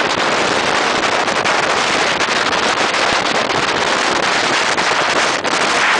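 Motorboat running under way: a loud, steady rush of wind and water, with frequent small crackles of wind hitting the microphone.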